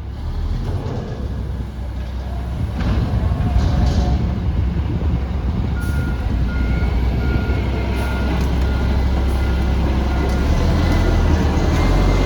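Front-loader garbage truck's diesel engine running, getting louder, with its backup alarm beeping at about two beeps a second for a few seconds from about halfway in.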